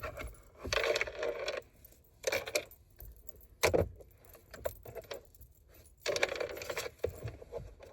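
Small objects being picked up and handled, rustling and clinking in short bouts, with one sharp knock a little under four seconds in.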